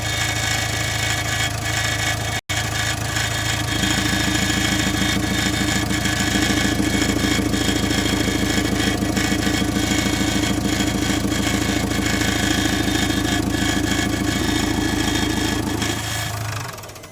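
JCB 3DX backhoe loader's diesel engine running steadily, with a brief break about two seconds in. From about four seconds a fast, even pulsing comes in and the engine gets a little louder; it dies away near the end.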